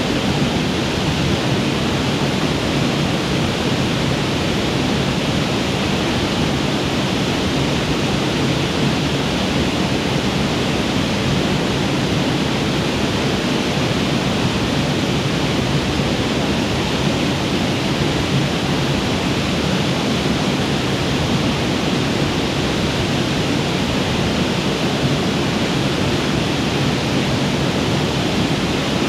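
Waterfall pouring steadily: a dense, even rush of falling water.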